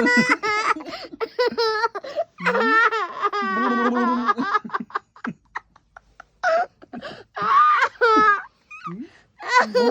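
A toddler laughing hard in several high-pitched fits, each a run of quick giggling pulses, with short pauses for breath between them.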